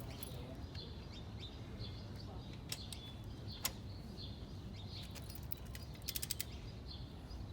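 Faint bird chirps in the background over a low steady hum. There are a couple of single sharp clicks, and a quick run of metallic clicks near the end, typical of a torque wrench or ratchet being worked.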